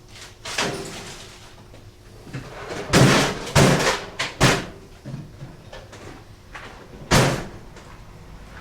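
A series of sharp knocks and clatters as parts are handled to get at the motorcycle's fuses. The loudest cluster comes about three to four and a half seconds in, with another knock near seven seconds.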